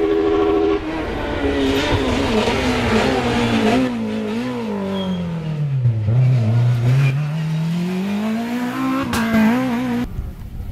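Rally car engine at speed on a stage, revving and shifting through the gears. The revs sink low about six seconds in as it slows for a bend, then climb steadily as it accelerates away.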